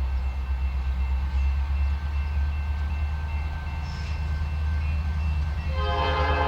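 EMD diesel locomotive running past with a steady deep rumble, its multi-note air horn sounding again near the end.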